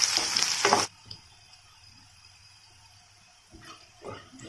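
Oil sizzling loudly as a tempering of dried red chillies, shallots, garlic and curry leaves fries in a kadai, with a ladle scraping through it, cut off abruptly under a second in. After that it is quiet apart from a few faint soft knocks near the end.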